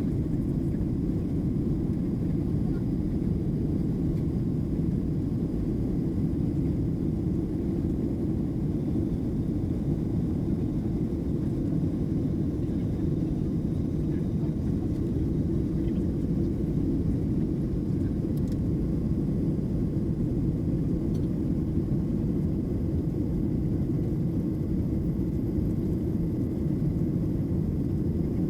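Steady low rumble of a Boeing 737-700 heard inside the passenger cabin, its CFM56-7B turbofan engines running at an even level.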